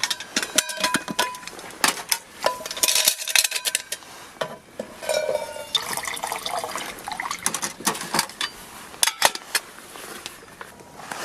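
Metal cookware and utensils clinking and clattering, each knock ringing briefly, with liquid poured into a vessel about five seconds in.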